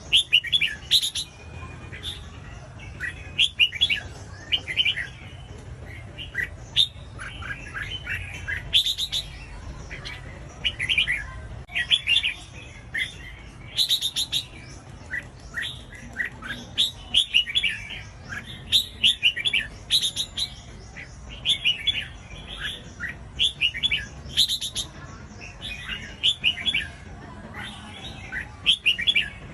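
Red-whiskered bulbul singing: short, bright, warbled phrases, repeated every second or two, over a faint low hum.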